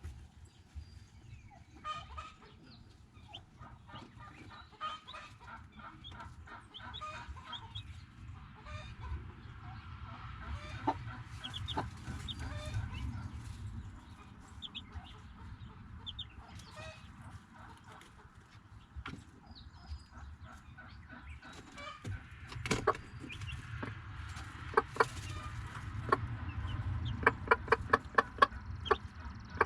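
A flock of chickens clucking, many short calls overlapping, with a run of sharp clicks near the end.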